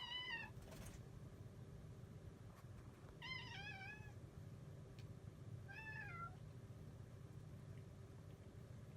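A young red tabby cat meowing three times, short high calls that rise and fall in pitch, the second one a little longer.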